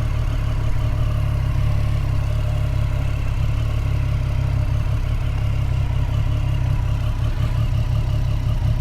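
Motorcycle engine running steadily, under a heavy low rumble of wind on the helmet microphone.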